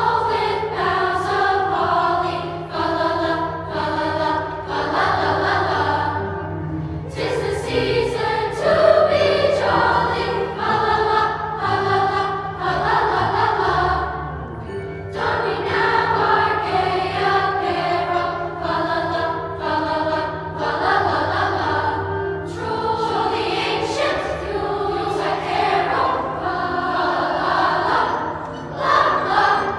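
A school choir singing a holiday piece in phrases, over sustained low accompanying notes.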